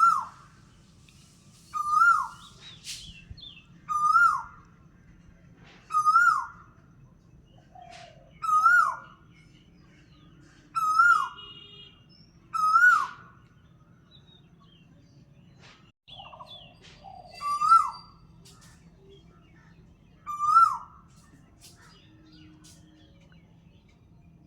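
A bird calling over and over, a short rising-then-falling note about every two seconds, with a pause in the middle of the run. Fainter chirps of other birds fall between the calls.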